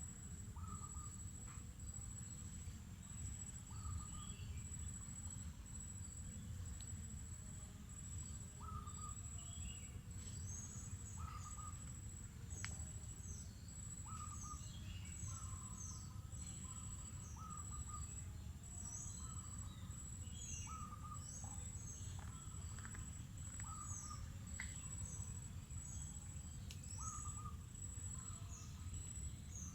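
Mangrove forest birds and insects: an insect's high trill pulsing steadily throughout, while several birds call with short repeated notes and quick falling chirps, over a steady low rumble.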